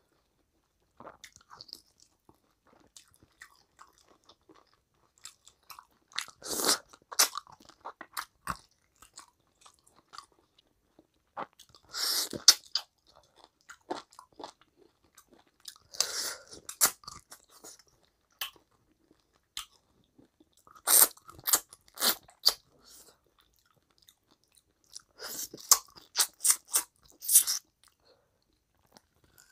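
Close-up chewing and biting of spicy mutton curry with rice, eaten by hand. Clusters of sharp mouth clicks come every four to five seconds, with softer chewing between.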